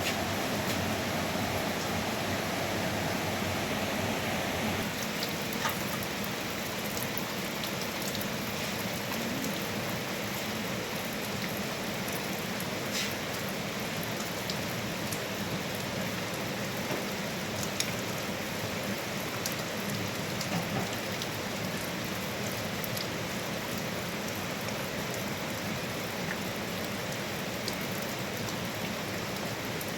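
Steady hiss of water, like rain falling, with scattered faint ticks of drops; it eases slightly about five seconds in.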